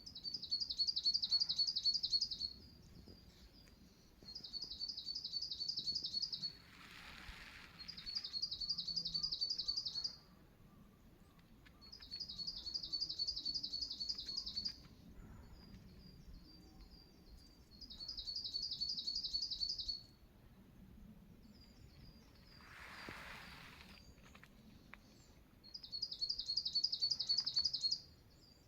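A wild songbird singing the same high, rapid trill of quickly repeated notes six times, each song about two to three seconds long with pauses of a few seconds between, and softer high chirps in the gaps. Twice a brief soft whoosh rises and fades.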